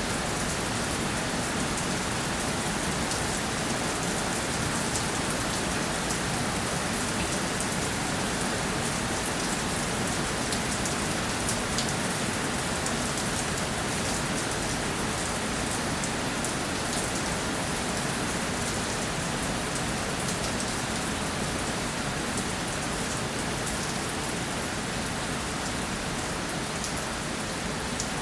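Steady rainfall: an even hiss of rain falling on a surface, with many fine drops pattering.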